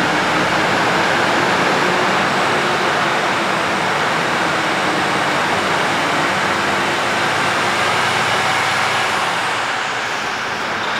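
Mercedes-Benz cement mixer truck's Euro 6 diesel engine running steadily after a start, with a faint high whine over it, easing slightly near the end.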